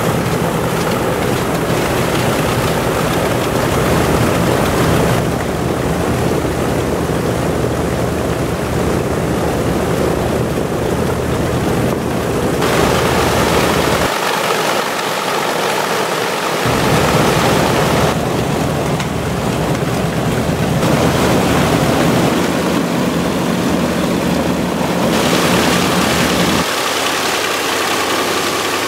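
Pratt & Whitney R-1830 radial piston engines of a PB4Y-2 Privateer running on the ground during engine runs, a loud steady throbbing drone. The sound changes abruptly several times, as the engine note and propeller noise switch between different levels.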